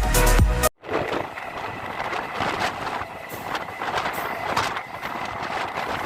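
Background music cuts off just under a second in, giving way to a MEMU electric passenger train running along the track: a steady rushing noise with light clatter of wheels over the rails.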